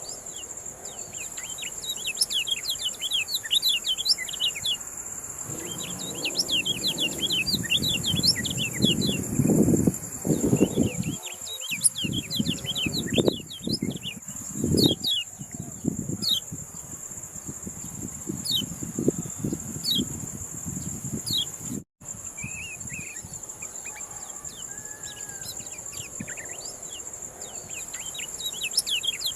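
Yellow-bellied prinia (kecial kuning) song: rapid, high chirps and short trills repeated over and over, over a steady high insect drone. Bouts of low rumbling noise come through the middle, and the sound drops out for an instant near the end.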